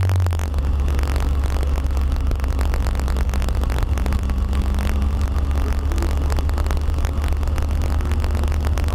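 Honda K20 inline-four engine of a track-prepared Toyota MR2 Spyder running steadily at low speed, heard from inside the cabin, with a deep, even drone and no revving.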